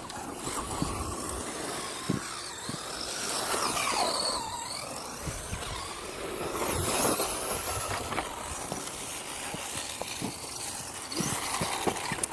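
Radio-controlled trucks' electric motors whining, rising and falling in pitch as they speed up and slow down, over a steady rush of tyre and ground noise.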